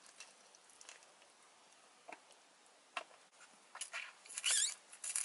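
Quiet chewing and wet mouth sounds of someone eating a sushi roll, with scattered faint clicks and a cluster of louder smacks and clicks from about three seconds in.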